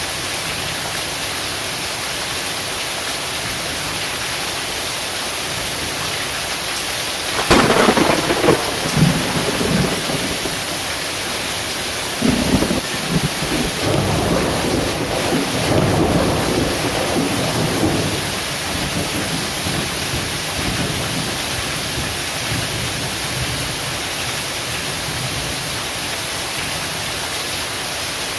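Heavy rain falling in a steady hiss. About a quarter of the way in a sudden sharp thunderclap breaks out and rolls into rumbling, and a second clap follows that rumbles for several seconds before fading back under the rain.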